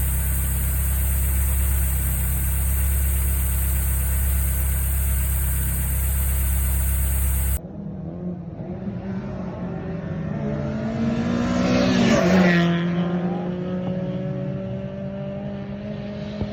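Mazda NB Roadster engine running after an engine swap. For about the first seven and a half seconds there is a steady, unchanging running sound. After a sudden cut, the engine idles, is revved once around twelve seconds in with the pitch rising and then falling back, and settles into a steady idle.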